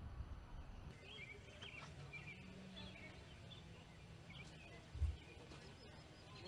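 Birds chirping faintly in short, squiggly calls, with a faint low hum underneath and a brief low thump about five seconds in.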